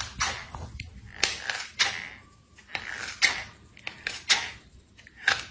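A run of sharp, irregular knocks and clatters, about ten over a few seconds, with short ringing tails in a small room.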